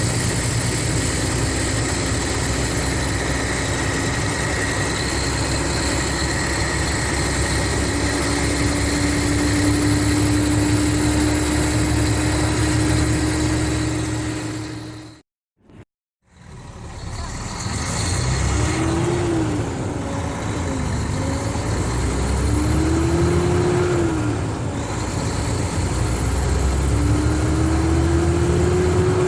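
Mercedes-Benz O500RSD Busscar coach's diesel engine running under way, steady through the first half. The sound drops out briefly about halfway, then the engine note climbs and falls three times, like pulling through the gears.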